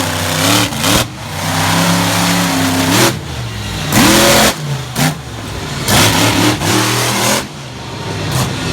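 Monster truck engine revving hard in repeated throttle bursts, its pitch climbing and falling with each blip.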